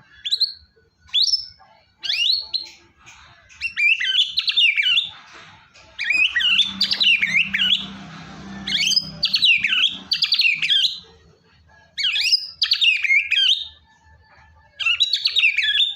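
White-rumped shama singing: a series of loud, varied, fast whistled and warbled phrases, each a second or two long, with short pauses between them.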